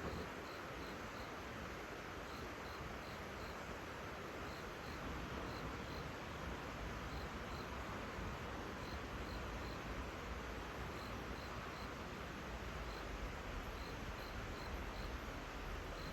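Crickets chirping in short, high, repeated chirps that come in loose runs over a steady background hiss.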